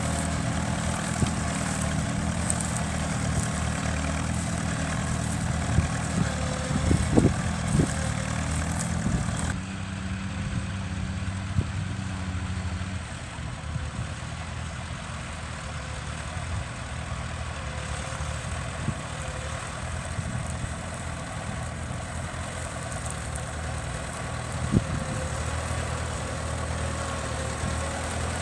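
Heavy engine idling with a steady low throb. The sound changes abruptly about ten seconds in, and a few sharp knocks stand out.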